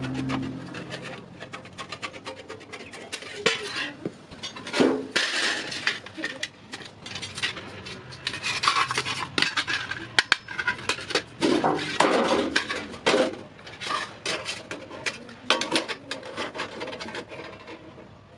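Hand work on iron: irregular scraping and rasping with scattered sharp metallic clicks and clinks.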